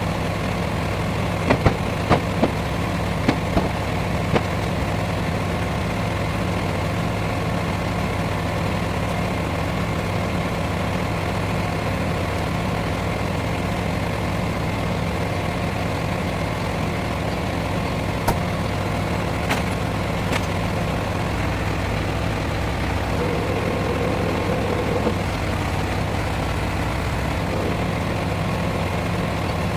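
A large truck's engine idling steadily, with a few sharp knocks in the first few seconds and a couple more a little past the middle.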